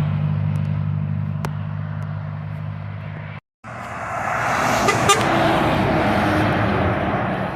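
Truck engine running with a steady low hum that slowly fades, then an abrupt cut to silence; after it, louder engine and road noise of a heavy vehicle swells up.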